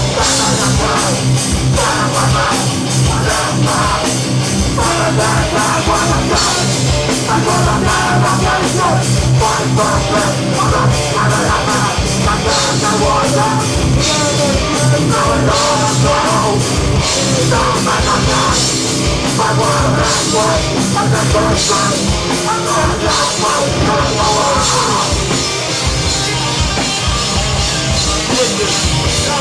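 Hardcore band playing live: distorted electric guitars, bass and a drum kit keeping a dense, even beat.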